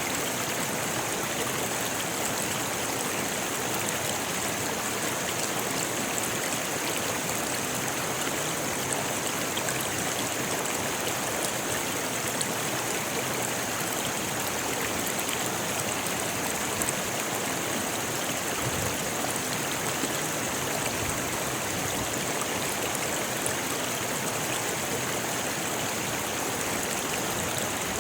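A rocky river rushing over stones: a steady, even, hissing water noise with no change in level.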